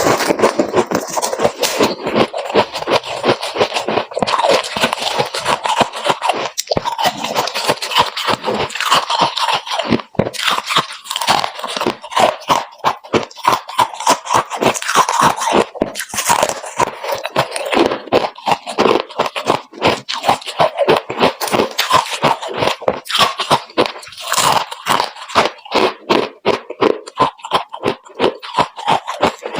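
Close-up chewing of freezer frost: a continuous run of crisp crunches, several a second.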